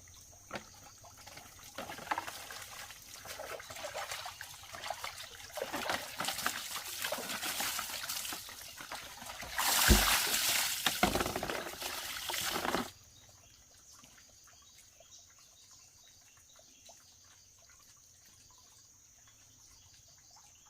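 Water trickling and pouring, building up and loudest for a few seconds before it stops abruptly about thirteen seconds in.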